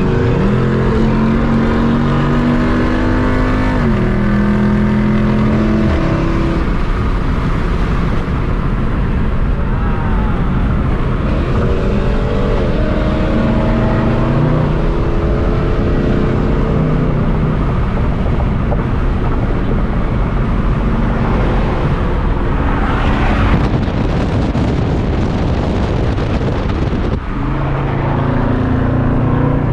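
Muscle car engine running on the road, its note climbing and then dropping several times as the car accelerates and shifts, over steady road and wind noise. A brief louder rush comes about two-thirds of the way through.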